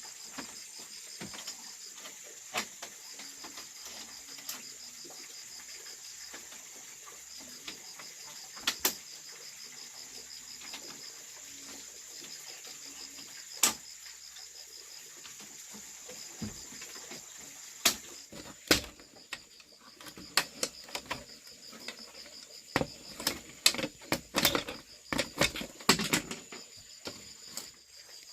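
Insects trilling in the background, a high pulsing chirr that breaks off now and then. Sharp knocks and clatter come through it, scattered at first and busier and louder near the end.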